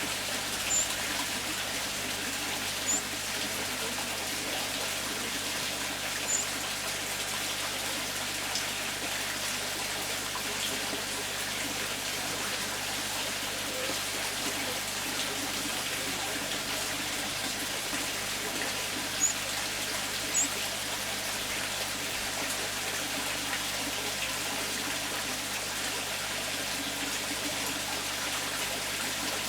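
Water trickling steadily in a garden pond, with a few short, high chirps standing out above it now and then.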